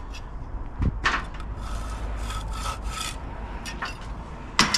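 Hand tool scraping on brick in quick repeated strokes, a few a second, with a sharper knock about a second in and a louder scrape near the end.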